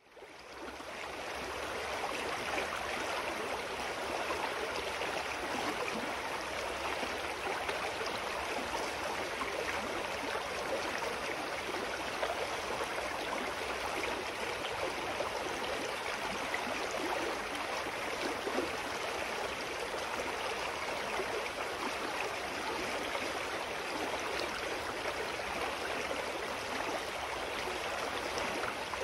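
A clear mountain stream running steadily over rocks, fading in over the first second or two.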